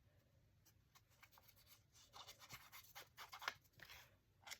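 Faint, irregular scratching and rustling of cardstock being handled and glued, starting about two seconds in after near silence.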